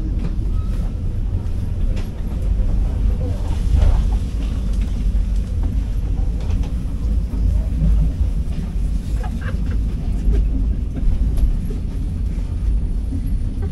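Passenger train running along the track: a steady low rumble with scattered clicks and knocks.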